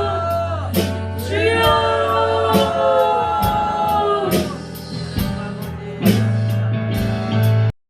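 Worship band music with sustained bass notes and repeated sharp strikes, under loud voices crying out in drawn-out calls that fall in pitch, several times. It cuts off abruptly near the end.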